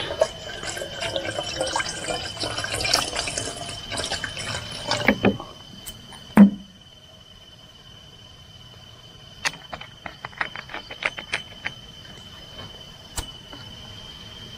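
Water pouring and splashing into a container for about five seconds, then a single dull thump and a run of light clicks, over a steady high chirring of crickets.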